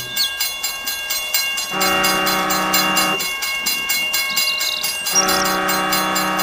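Train running with a fast, even clatter, its horn sounding twice, each blast held for about a second and a half.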